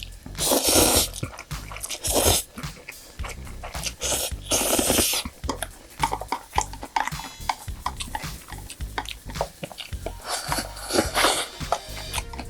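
Close-miked eating sounds of a person chewing and biting, with four loud noisy bursts about half a second to a second long and many small wet clicks between them.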